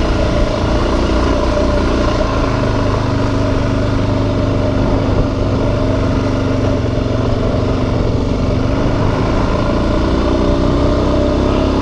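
Suzuki DRZ400S single-cylinder four-stroke engine running steadily under way, its note rising a little near the end.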